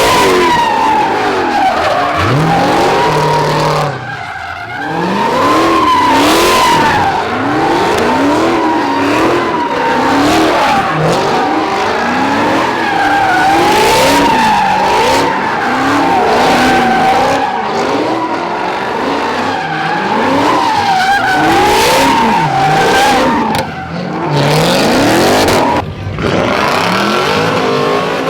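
A car sliding in circles: its tires squeal steadily while the engine revs up and down again and again. There are brief lulls about four seconds in and near the end.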